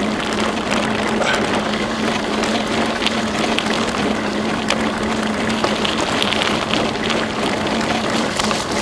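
Bicycle riding along a trail: a steady rush of tyre and riding noise with scattered clicks and rattles, and a steady low hum underneath.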